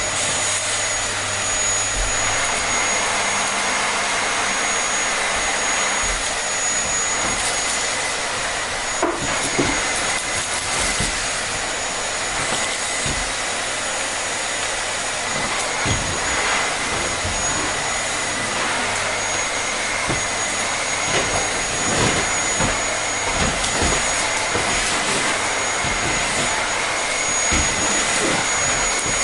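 Vacuum cleaner running steadily: an even rushing of air with a constant high whine from the motor.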